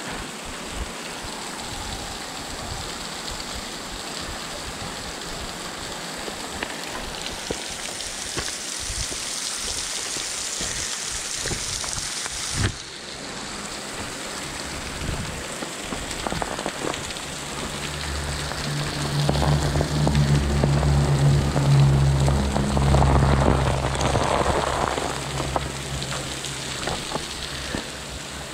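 Falling water from a tall waterfall spattering and splashing steadily, heard as a rain-like hiss, with one sharp knock a little before halfway. In the second half a low droning hum swells, becomes the loudest sound, and fades again before the end.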